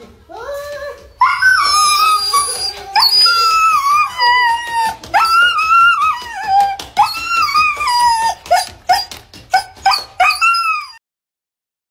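A husky howling and whining in a string of long, wavering calls that rise and fall in pitch, several in a row, stopping about a second before the end.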